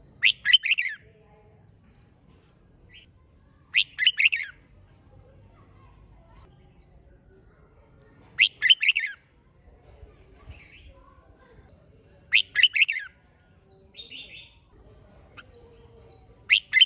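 Red-whiskered bulbul singing loud, short bubbly phrases of quick notes, one about every four seconds, with fainter high chirps between them.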